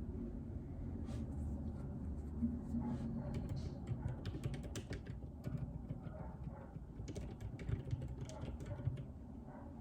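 Typing on a JJK84 mechanical keyboard with Outemu Silent Peach linear switches: irregular keystrokes over a low steady background rumble.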